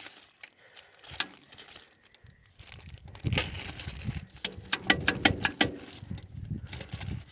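Ford 1700 tractor gear-shift mechanism worked by hand: metal clicking and rattling, with one sharp click about a second in, then a clatter and a quick run of about six sharp clicks. This is the spring-loaded detent balls snapping into the shift-rail notches as the rails are moved.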